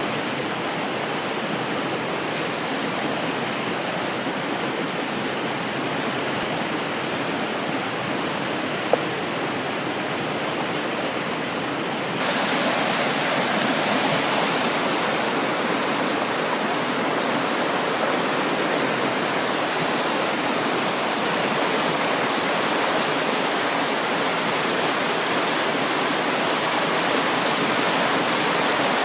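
River water rushing steadily, a constant wash of noise that turns abruptly louder and brighter about twelve seconds in. A single sharp tick shortly before that.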